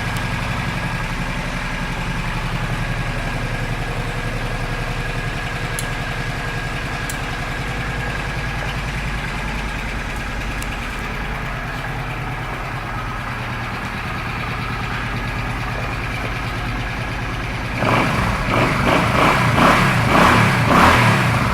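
2005 Suzuki C50 Boulevard's 805 cc V-twin engine idling steadily, then revved several times near the end. The exhaust has a deeper sound, which the seller thinks may mean its baffles have been removed.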